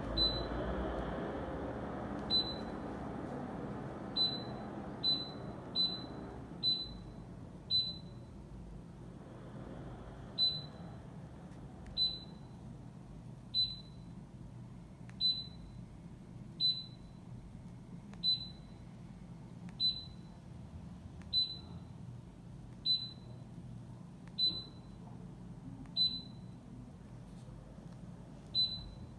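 An electric fireplace's control electronics giving short, identical high beeps, about nineteen of them: several quickly in the first eight seconds, then one roughly every second and a half, as its settings are stepped through. A low steady hum runs underneath.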